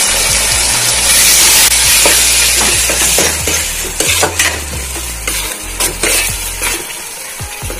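Curd and onion-tomato masala sizzling in hot oil in a metal pan while a steel spoon stirs and scrapes through it, knocking against the pan in short clicks. The sizzle is strongest at first and eases off as the curd is mixed in.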